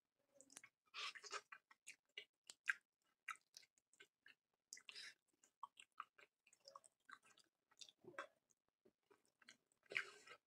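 Quiet close-up mouth sounds of a man chewing curry and fried rice: soft wet smacks and clicks at irregular intervals, with denser bursts of chewing about a second in, around the middle and near the end.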